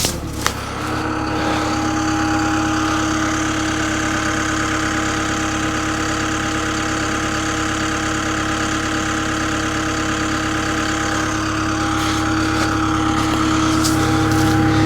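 Cat 313 hydraulic excavator's diesel engine running steadily, with a steady whine over the drone.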